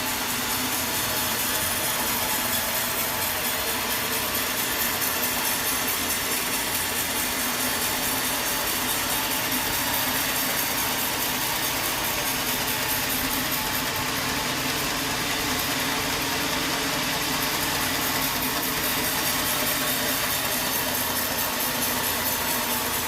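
Sawmill machinery running steadily: a continuous, even mechanical noise with a low engine hum under it.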